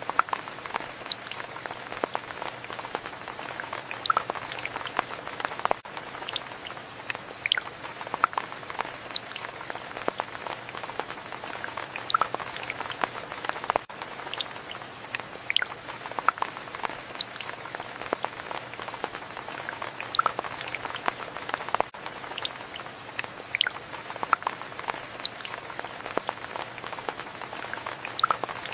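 Steady rain with many single drops dripping and pattering among the hiss; the same stretch repeats about every eight seconds.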